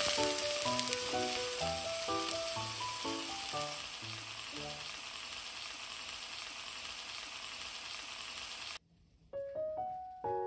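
Chicken skewers sizzling in a frying pan, a steady frying hiss that cuts off suddenly near the end. Soft piano-like background music plays over the first half and returns after the cut.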